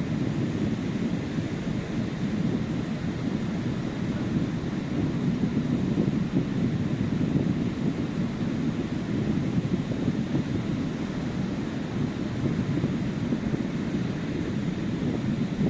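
Sea surf washing onto a beach, a steady low rush of waves with no single breaker standing out, mixed with wind on the microphone.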